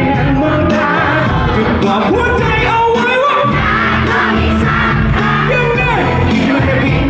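A Thai pop song performed live: a singer's voice over band music.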